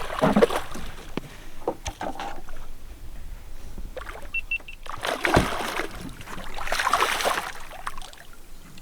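Water sloshing and splashing against the hull of a small flats boat, in several bursts, with scattered knocks. Three short high pips come about halfway through.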